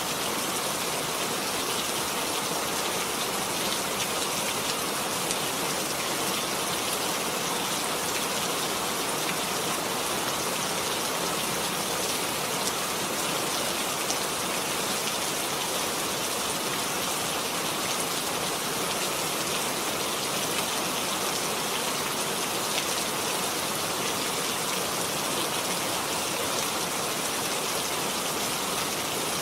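Steady rain falling, an even hiss with fine pattering of drops that keeps up without change.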